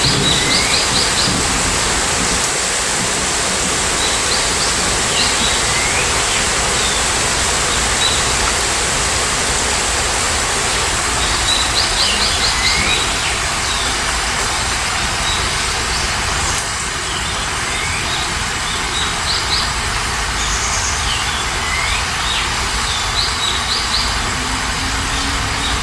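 Steady heavy rain, with a songbird repeating a short phrase of quick chirps and a falling note every few seconds.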